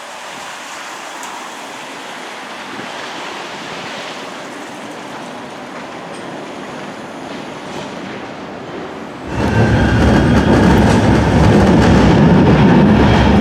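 Manchester Metrolink tram, first as a steady rushing of wind and rain at the stop, then about nine seconds in a sudden, much louder low rumble of the tram running that stops sharply near the end.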